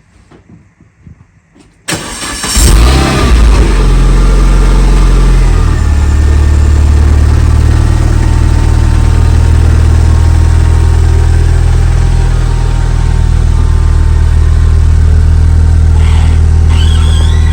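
Renault Megane R26 turbocharged 2.0-litre four-cylinder engine, swapped into a Clio, starting about two seconds in: it fires, flares up in revs, then settles to a steady idle.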